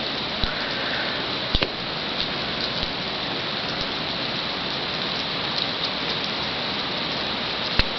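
Freezing rain falling steadily on ice-coated branches and ground, an even hiss with a few sharp clicks, the loudest near the end.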